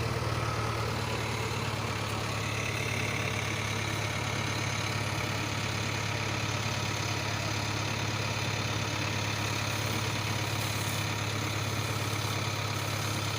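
Tractor diesel engine running steadily at a constant low speed, a low even hum with no revving.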